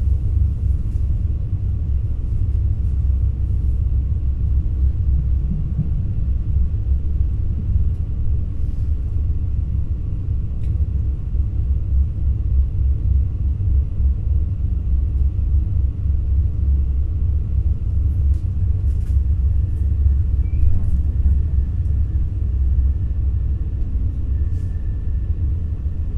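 Steady low rumble inside the passenger cabin of an NS ICNG electric intercity train in motion, with faint scattered clicks. A faint steady high whine joins about two-thirds of the way through.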